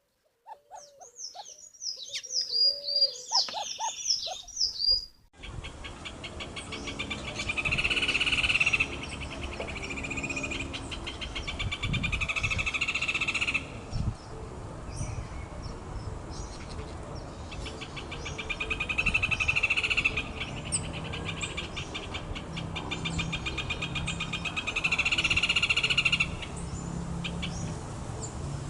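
Birds singing: a quick run of sliding whistled notes, then, after an abrupt change about five seconds in, long fast rattling trills repeated every few seconds.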